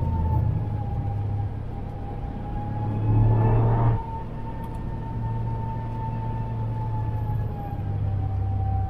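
Toyota GR Yaris's turbocharged three-cylinder engine running under steady load, heard inside the cabin, with a high whine that drifts slightly in pitch over the engine hum. About three seconds in, a louder rush of noise swells for about a second, then cuts off.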